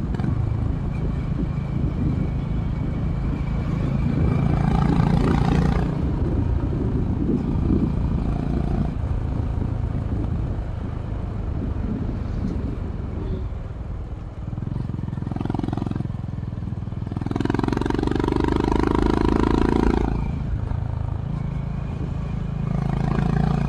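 Honda H'ness CB350's single-cylinder engine through its stock exhaust, running steadily as the motorcycle is ridden, with wind noise underneath. The engine note swells louder for a couple of seconds about five seconds in, again from about seventeen to twenty seconds, and once more near the end.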